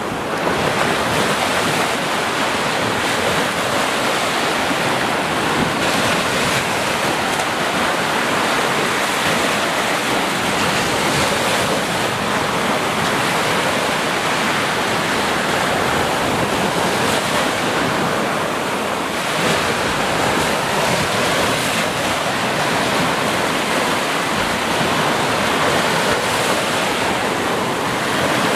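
Steady rushing water, a continuous even wash with no breaks.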